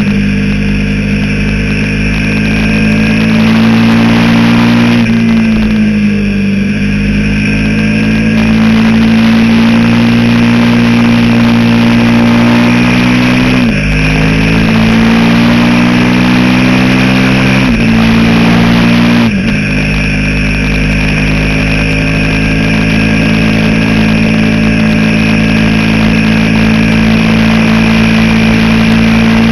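Sport motorcycle engine running at road speed. Its pitch sinks and rises with the throttle, then drops suddenly a few times around the middle and the second half.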